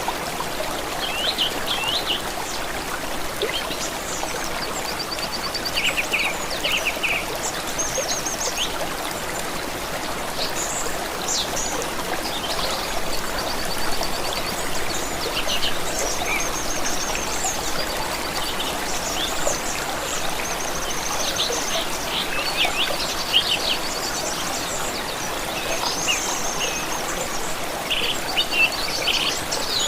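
Running water of a stream flowing steadily, with several songbirds chirping and trilling over it throughout.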